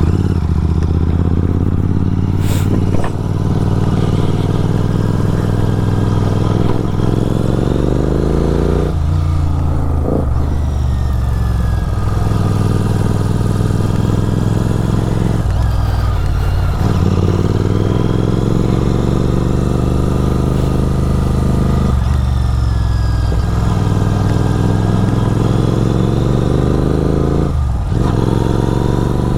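Superbike with a full-system aftermarket exhaust accelerating on the road, its engine pitch climbing steadily and then dipping briefly four times as it shifts gear. A short click sounds about two and a half seconds in.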